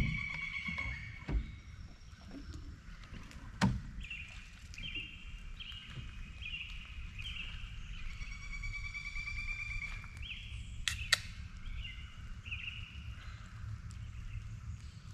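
Frogs calling in a chorus of repeated trills, each a second or so long, with two or three sharp snaps about four and eleven seconds in.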